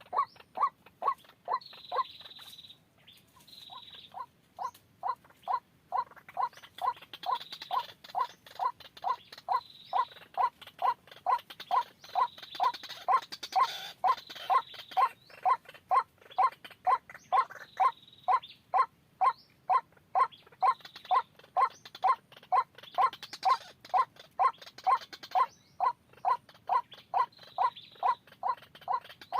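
White-breasted waterhen call: a long, even run of short notes, about three a second. It breaks off briefly about two seconds in and then resumes.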